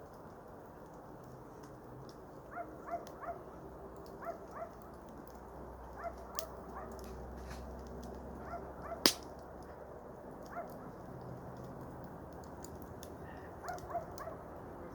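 Small campfire crackling, with scattered sharp pops and one loud snap about nine seconds in. Short rising chirps come in small clusters every second or so over it.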